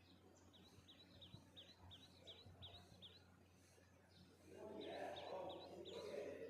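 Faint bird song: a songbird repeating a short falling note about three times a second, in two runs. From about four and a half seconds in, a louder low rushing noise rises beneath it.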